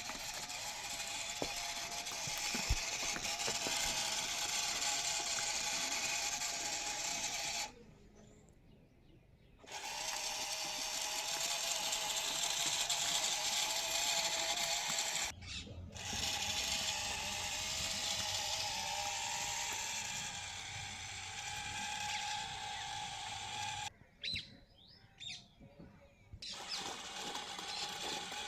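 A small motor and gears whirring steadily with a slightly wavering whine. The sound drops out abruptly three times and resumes at once each time.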